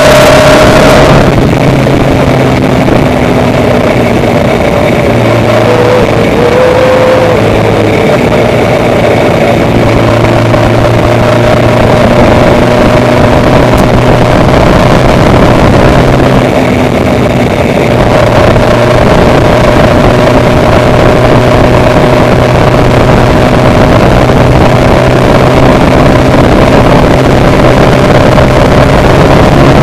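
Engine of a moving vehicle running steadily, loud and close, with a constant hum over a rushing noise.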